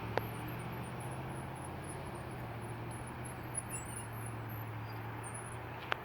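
CSX rail grinder train running, a steady low hum under a broad rushing noise. Two sharp clicks come just after the start and near the end, with faint high chirping above.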